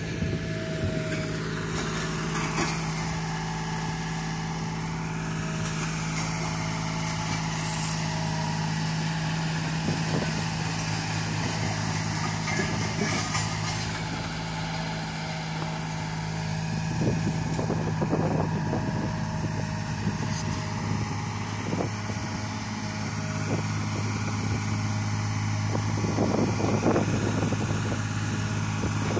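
Heavy road-works machinery's engine running steadily, with scattered short clatters in the second half.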